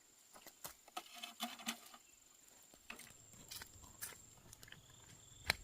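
Faint, irregular knocks and clicks from building work on the barn, with one sharper knock near the end.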